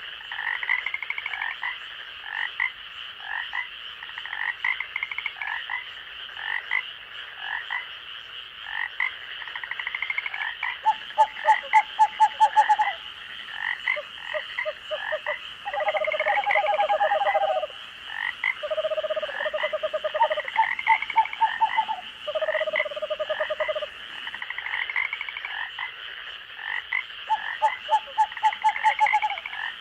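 Night chorus of frogs calling over a steady high-pitched drone: many short calls repeat throughout. Longer rapid pulsed trills come in about a third of the way through, several more follow through the middle, and another comes near the end.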